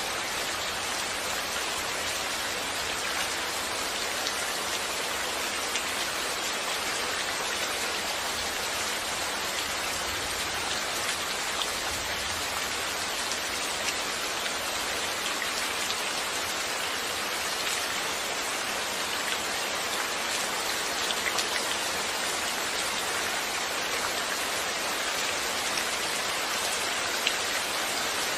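Steady, heavy rain falling, an even hiss with occasional sharper drop ticks.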